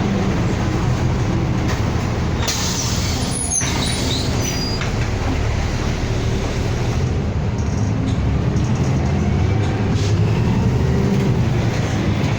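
City bus running, heard from inside the cabin: a steady engine drone with road noise. About two and a half seconds in there is a short burst of hiss lasting about a second.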